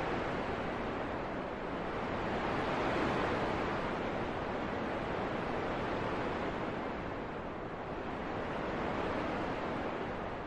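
Wind blowing in slow gusts: a steady rushing that swells and eases twice.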